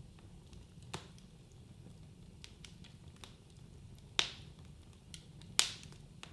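Wood fire crackling in a fireplace: a steady low rumble of the burning logs with scattered sharp pops, the two loudest about four and five and a half seconds in.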